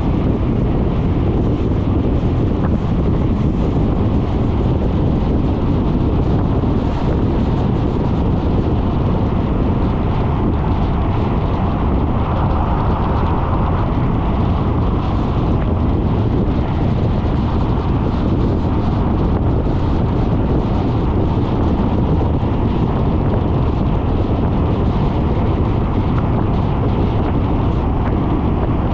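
Wind buffeting the microphone of a GoPro on a moving Suzuki Burgman 400 scooter: a steady low roar, with the scooter's engine and road noise mixed beneath it.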